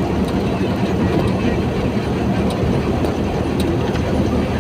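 Truck running at a steady speed, a constant heavy engine and road rumble with a steady hum, and a few light clicks or rattles.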